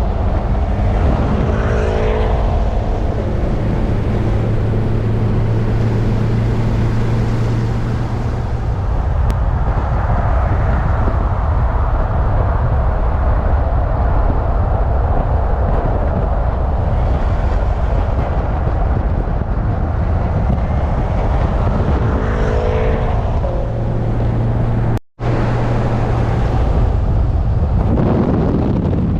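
A car cruising on a highway: steady road and wind noise over a low engine hum. The sound drops out for a moment about 25 seconds in.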